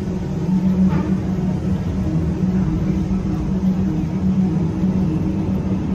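Walt Disney World Railroad train rolling along the track, a steady low rumble with a pulsing hum.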